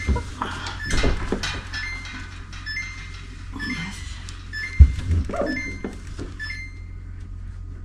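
Refrigerator being wiped out and handled: a run of light knocks, clicks and short squeaks of cloth and hands on the plastic inside, with one sharp thump about five seconds in.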